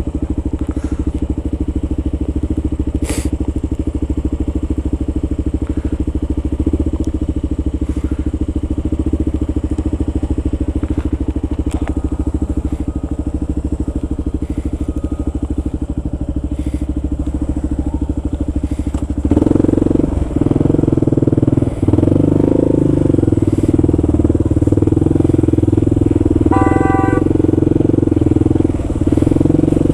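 Kawasaki KLR650's single-cylinder four-stroke engine running as the motorcycle is ridden, a steady thrumming that grows louder about two-thirds of the way through. A short beep sounds near the end.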